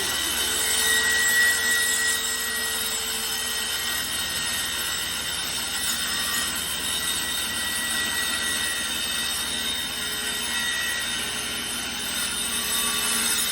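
Handheld circular saw running steadily as it cuts slowly through a wooden board, a continuous whine over the noise of the blade in the wood.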